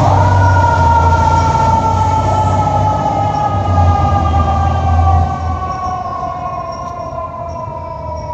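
Fire truck's mechanical siren briefly winding up and then slowly winding down in one long falling wail, over the deep rumble of the truck's engine, which drops away about five seconds in.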